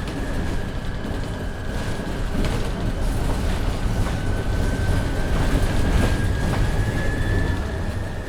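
Inside a MAN Lion's City hybrid city bus under way: the drivetrain and road make a steady low rumble with scattered rattles. Over it runs a thin, steady high whine that sags slightly in pitch and comes back up.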